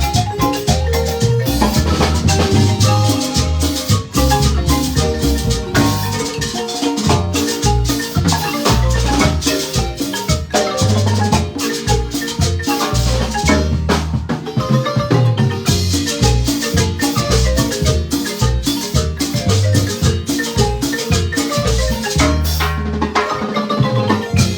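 Marimba ensemble playing: fast runs of struck wooden-bar notes over a walking line of low bass notes, with percussion keeping a steady beat.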